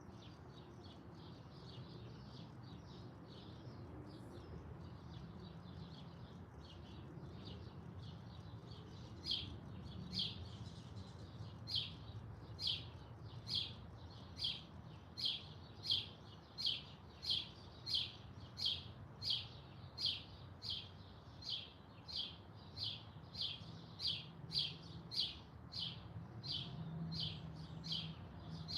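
Birds chirping: faint, busy chirps at first, then from about a third of the way in a single bird repeats one short, high chirp at an even pace of roughly one a second.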